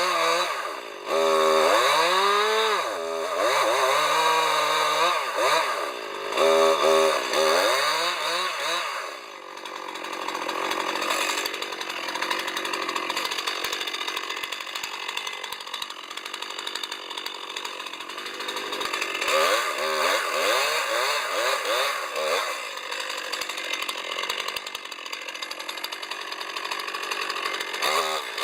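Two-stroke chainsaw running and cutting wood. The engine revs up and down repeatedly for the first several seconds and again around twenty seconds in, with steadier stretches of cutting in between.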